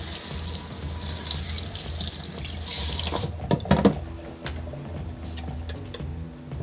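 Kitchen tap running into a sink, shut off suddenly about three seconds in, followed by a few quick knocks as something is handled in the sink.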